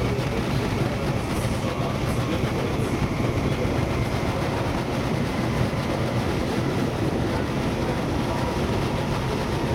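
DB Class 420 S-Bahn electric multiple unit heard from inside the passenger cabin, running at speed: a steady rumble of wheels and running gear on the rails.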